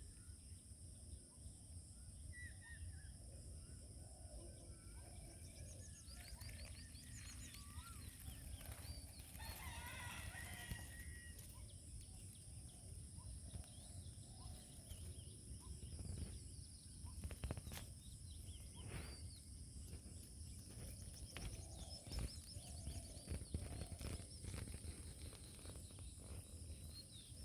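Faint outdoor nature ambience: scattered short bird chirps and calls over a steady high-pitched drone, with a low rumble underneath.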